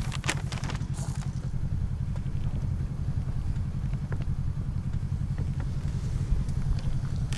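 Off-road vehicle engine running steadily at low revs, a low pulsing rumble, with a few light clicks about a second in.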